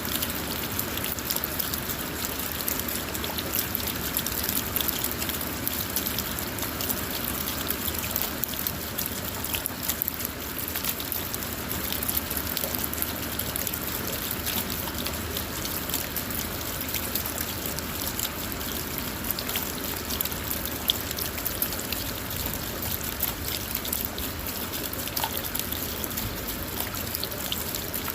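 Steady rain falling on a car, a dense patter of drops over a constant wash of trickling water.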